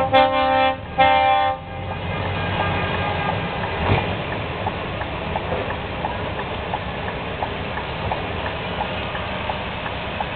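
Truck air horn sounding two short blasts, then the steady rumble of heavy truck engines running with scattered light clicks.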